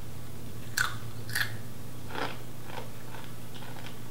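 A person biting into and chewing a seasoned roasted cricket snack: two sharp crunches about a second in, then a softer crunch and a run of fainter crunches as the chewing goes on.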